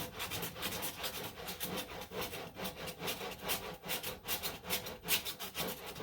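Sandpaper backed by a hockey puck being rubbed by hand over body filler on a car panel, rapid back-and-forth scraping strokes at about four or five a second. The filler is still only partly set, and the sanding is knocking down its high spots.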